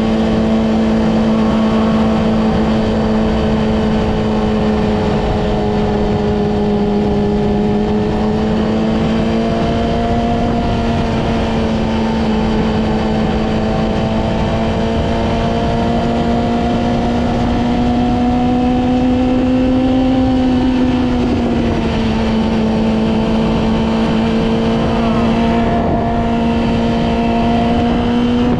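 Yamaha R6's inline-four engine running at fairly steady revs while riding, its pitch slowly rising and easing, with a brief drop in revs a little past two-thirds of the way through.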